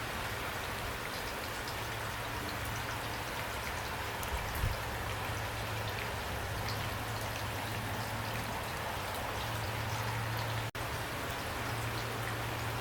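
Steady, heavy rainfall, with single drops tapping sharply on a surface here and there over the even hiss. A split-second dropout about three-quarters of the way through.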